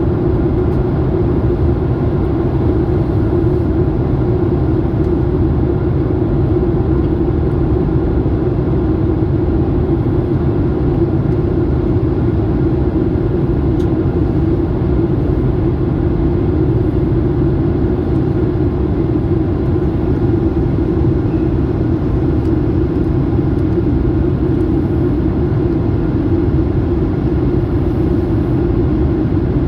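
Steady, loud drone of a passenger airliner's cabin in flight: engine and airflow noise as heard inside the plane, a low, unchanging rumble.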